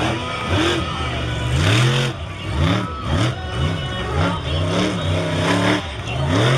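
Monster truck engine revving hard in quick repeated surges, the pitch climbing and dropping over and over, about one to two revs a second.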